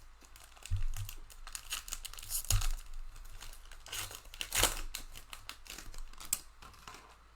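Plastic trading-card pack wrapper being torn open and crinkled by hand, a run of sharp crackles with louder rips about a second in, halfway through and past the middle.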